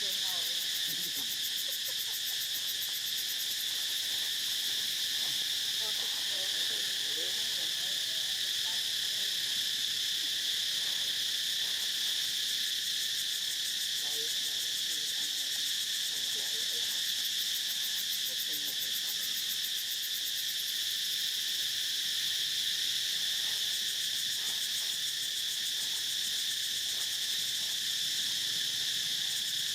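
Steady chorus of insects: a high, shrill drone that holds unbroken.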